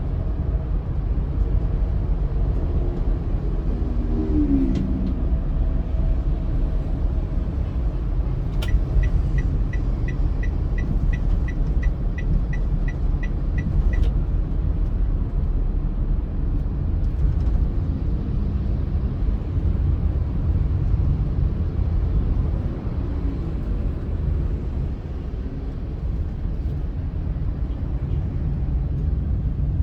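A car driving on the road, with a steady low rumble. In the middle comes a run of regular ticks, about three a second, lasting roughly five seconds.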